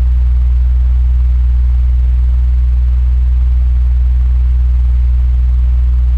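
Electric fan running steadily: a strong low motor hum under an even, airy whoosh, unchanging throughout.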